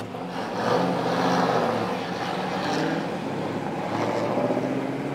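A car engine running, getting louder about a second in, with its pitch shifting a little.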